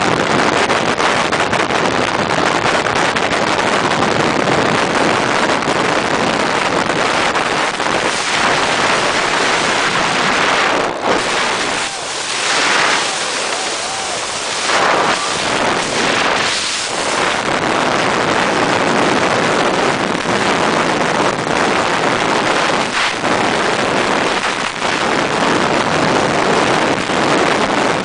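Wind rushing over the microphone at high speed on a racing motorcycle, with the engine running underneath. The roar dips and shifts for a few seconds around the middle.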